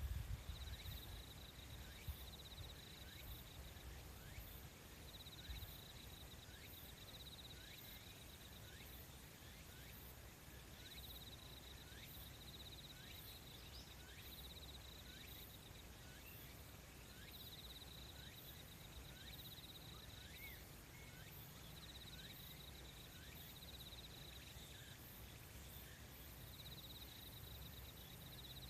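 Faint insects calling: a high trill lasting two or three seconds that repeats every few seconds, over a steady run of short falling chirps.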